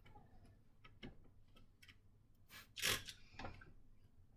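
Two short hissing spritzes from a trigger spray bottle of all-purpose cleaner, about halfway through, the second louder, among light clicks and handling sounds.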